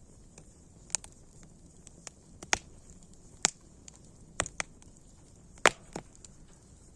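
Wood fire burning with a faint hiss, crackling with scattered sharp pops, the loudest a little past the middle.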